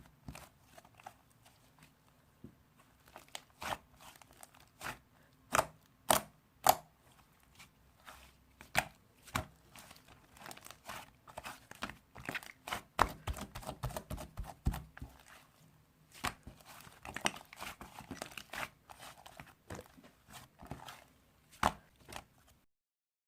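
Hands pressing and squishing pink slime, making an irregular run of sharp, wet clicking pops and crackles. The sound cuts off near the end.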